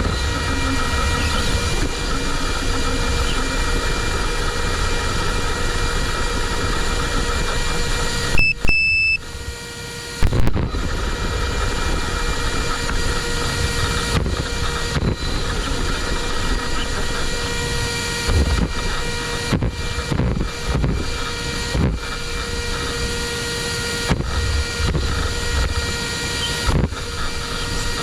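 A brushless electric RC car (a modified JLB Cheetah) driving, heard from its onboard mic: rumble of tyres and drivetrain under a steady electronic whine, with scattered knocks from bumps. The sound drops out briefly about eight seconds in.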